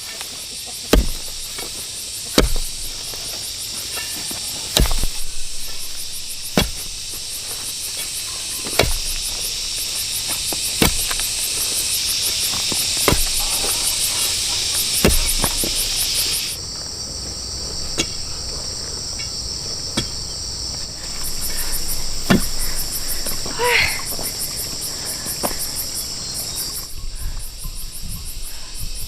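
A dense, steady chirring of insects, with a sharp knock roughly every two seconds from a hand tool striking. Near the end there is one short gliding call.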